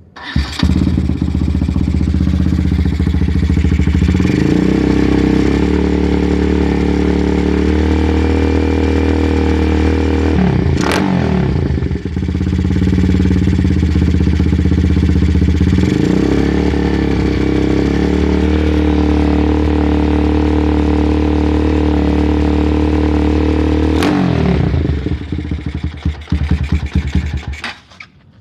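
Motorcycle engine running loud through its exhaust, held at steady high revs. It drops back and climbs again partway through, with a sharp crack twice, then falls away unevenly near the end.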